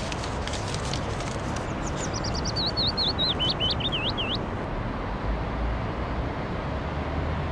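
A songbird singing a run of about a dozen quick chirps that step down in pitch, over a steady outdoor ambience hiss.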